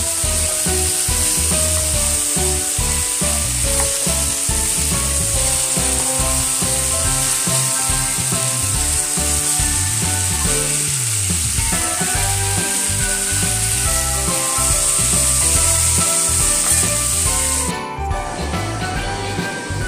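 Chicken pieces sizzling in hot oil as they are sautéed in a pan and stirred with a spatula, under background music with a steady beat. The sizzle cuts off suddenly near the end, leaving only the music.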